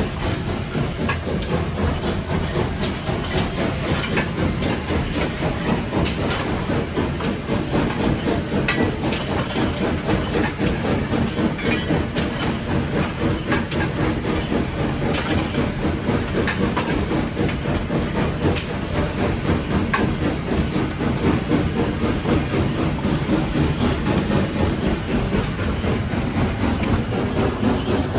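Nevada Northern No. 81, a Baldwin 2-8-0 steam locomotive, running, heard from inside its cab: a steady hiss of steam over the rumble of the wheels on the rails, with a few sharp clicks scattered through it.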